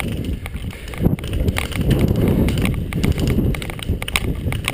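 Footsteps of a player moving on the ground with rustling of gear close to the microphone, an uneven run of heavy thuds and a few sharp clicks.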